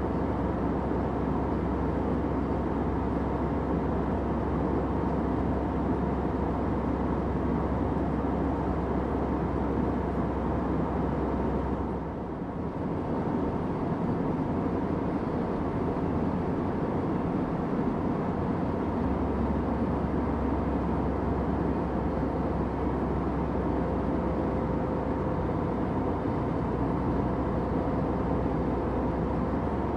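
Steady airliner cabin drone: engine and airflow noise with a deep rumble. About twelve seconds in, it dips briefly, and the deepest part of the rumble stays weaker for several seconds after.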